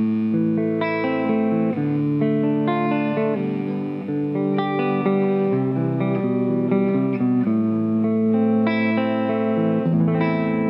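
Gibson Les Paul Gold Top copy electric guitar played through an amplifier: ringing chords and single notes that change every half second or so.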